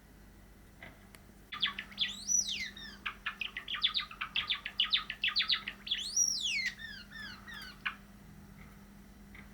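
Cream Java sparrow singing: a rapid run of short clicking notes starts about a second and a half in, broken twice by a long whistle that rises and then falls, and the song ends about eight seconds in.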